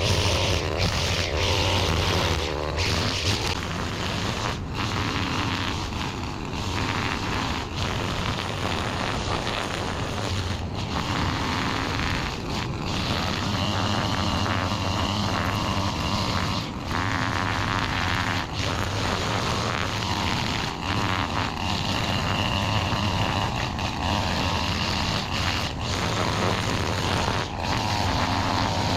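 Small engine of a yard-work power tool running steadily at working speed, with brief dips every second or two.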